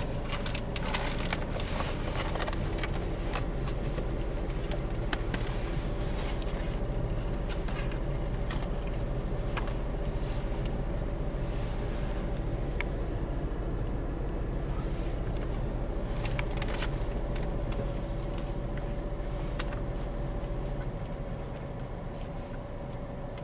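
A steady low hum fills the background and drops a little near the end. Over it come scattered soft clicks and rustles from a burger being handled and eaten.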